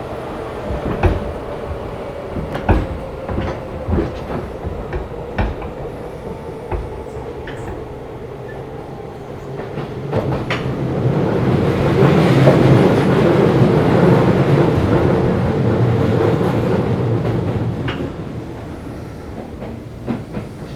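Running sound inside a Keisei 3500 series electric train's motor car, with the wheels clicking over rail joints. From about halfway the running noise swells louder for several seconds, then eases off.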